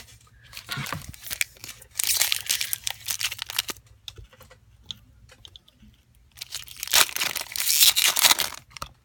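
Foil booster-pack wrapper being torn open and crinkled, in rustling stretches about two seconds in and again, louder, near the end.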